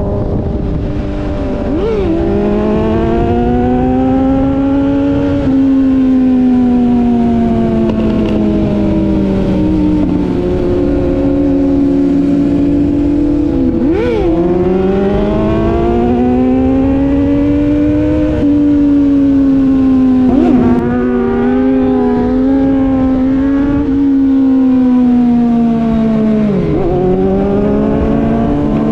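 Sport motorcycle engine under way, its pitch rising and falling with the throttle, with a few quick sharp dips like gear changes.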